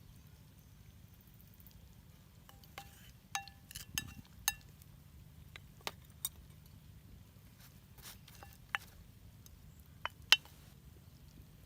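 Utensils clinking against cookware in irregular light strikes, several with a brief ringing tone, the loudest near the end.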